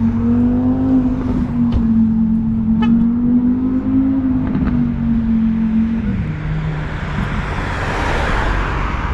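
Ford Shelby GT350's 5.2-litre flat-plane-crank V8 with long-tube headers running at low speed with a steady droning note that steps down lower about six seconds in. A rushing hiss swells near the end.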